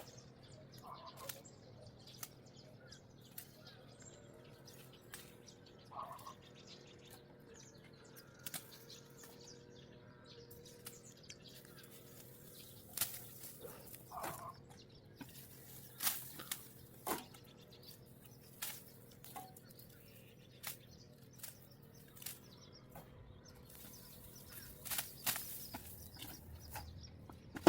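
Irregular sharp clicks and snaps, spread out over the stretch, with a few short bird chirps.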